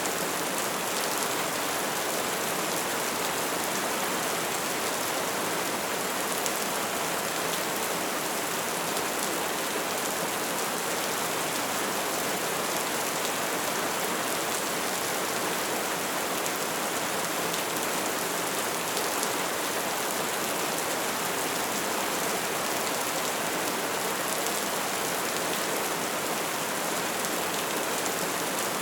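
Wood fire burning with a steady hiss and dense, continuous crackling.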